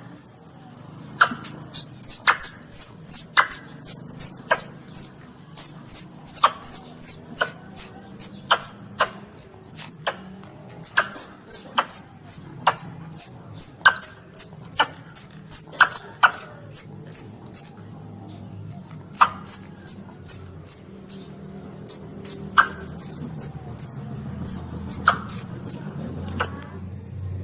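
Baby Asian palm civet (luwak) calls: short, very high squeaky chirps repeated about twice a second, with a short break partway through.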